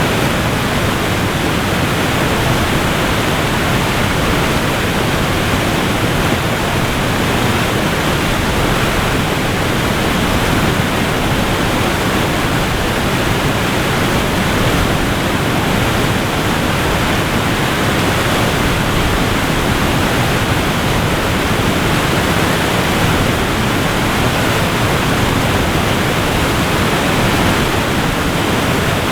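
Waterfall: falling water making a loud, steady rush of noise that stays even throughout.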